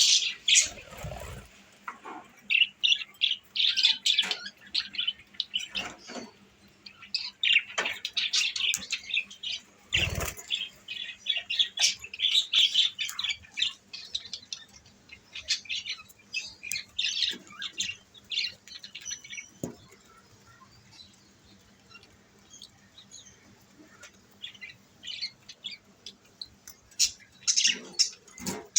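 Budgerigars chirping, with many short high chirps in quick runs and a few quieter pauses. There is a low thump about a second in and another about ten seconds in.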